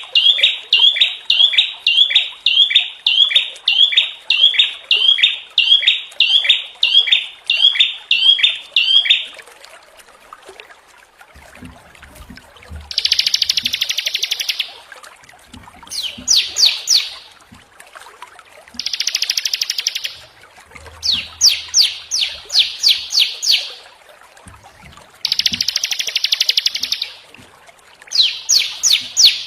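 Small songbirds singing: a steady run of repeated sharp chirping notes, about two to three a second, stops after about nine seconds. After a short pause, short bursts of rapid, harsh trilling follow every two to three seconds.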